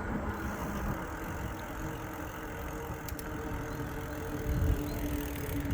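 E-bike in motion: a steady rolling rumble with a faint steady hum from the motor.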